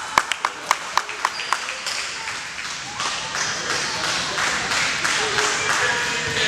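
Gym crowd noise at a youth basketball game: a quick, even run of about eight sharp smacks in the first second and a half, then steady crowd voices echoing in the hall.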